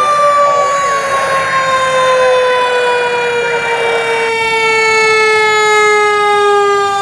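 Fire apparatus siren winding down, one long tone whose pitch falls slowly and steadily. A hissing rush under it cuts off suddenly about four seconds in.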